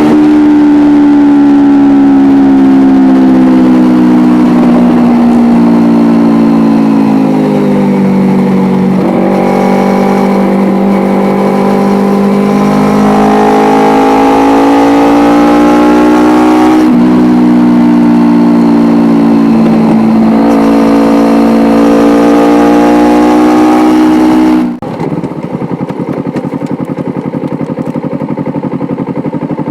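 A 2012 Kawasaki Ninja 250R's parallel-twin engine with an Akrapovic exhaust, running hard at high revs. Its pitch falls and climbs again several times. About 25 seconds in, the sound cuts suddenly to a much quieter, lower running.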